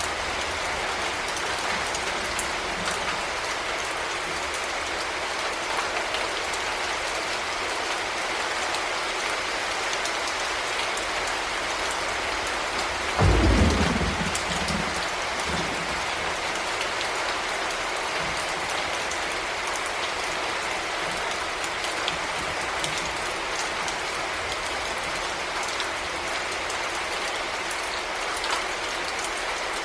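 Heavy rain falling steadily, with one sudden loud clap of thunder about halfway through that dies away within a couple of seconds.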